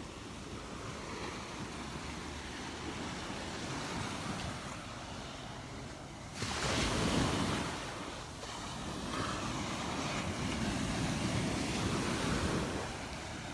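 Surf washing onto a Gulf of Mexico beach, with wind buffeting the microphone; one louder rush of noise comes about halfway through and then eases off.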